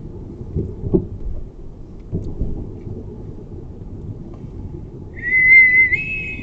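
Low road rumble inside a moving car, with a few dull bumps in the first few seconds. Near the end comes a loud, wavering, whistle-like high tone lasting about a second that steps up in pitch.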